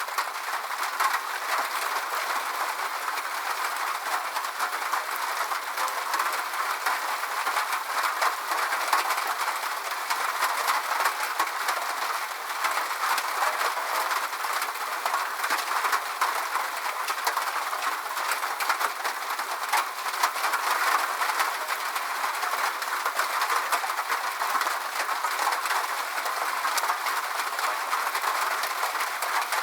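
Steady rain: an even hiss with a dense patter of drop ticks.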